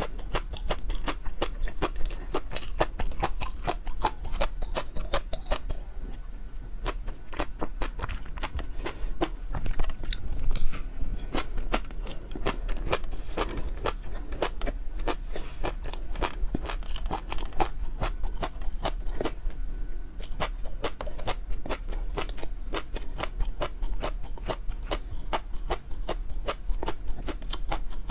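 Close-miked eating sounds: a person chewing and biting food, with many small wet, crunchy clicks and mouth noises following one after another.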